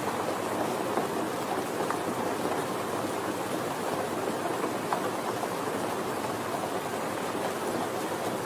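Steady soft rain: an even hiss with scattered single drops ticking through it.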